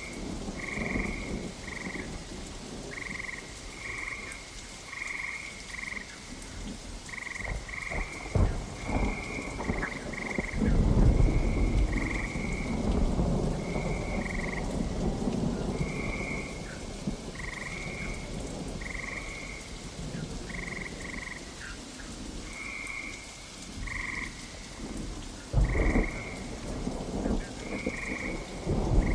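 Steady rain with thunder: a sharp rumble about 8 seconds in, a long rolling rumble from about 10 to 14 seconds, and more near the end. Throughout, frogs call over the rain in short, high notes, roughly one or two a second.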